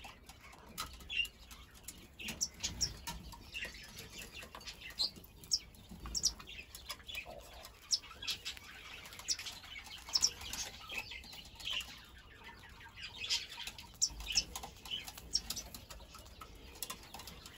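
Small birds peeping and chirping in quick, scattered high calls, with soft rustling and wing flutters from a zebra dove chick held in the hand.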